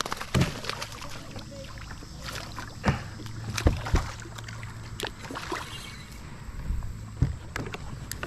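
Irregular sharp knocks and clatter of gear and hands against a kayak while a hooked bass is played and landed, over a steady low hum.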